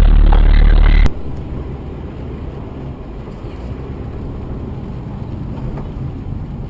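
Steady engine and road noise of a car on the move. A loud, low rumble cuts off suddenly about a second in and gives way to quieter, even road noise.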